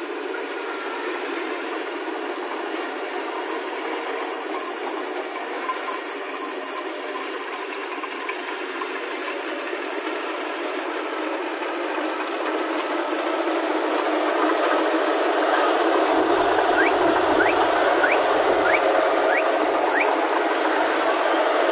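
Kubota rice combine harvester running, a steady mechanical noise that grows louder about two-thirds of the way through, with a few short high squeaks near the end.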